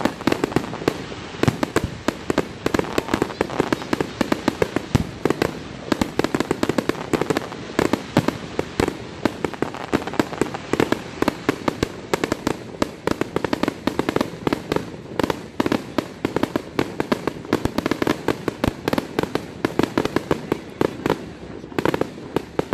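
Fireworks display: a dense, continuous barrage of aerial shell bursts and bangs, several a second, easing off slightly near the end.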